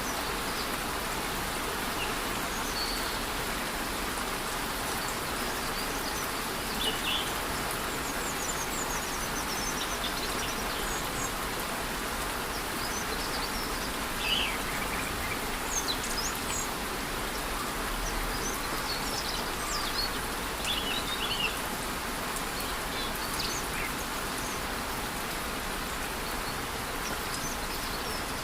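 Steady rush of a rainforest waterfall in light rain, with short scattered bird chirps above it.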